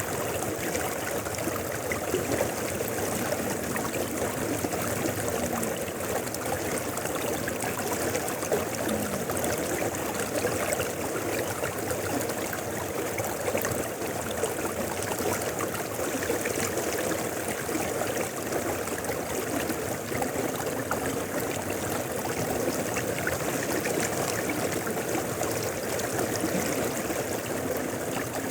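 Mountain river flowing steadily, an even, unbroken wash of running water.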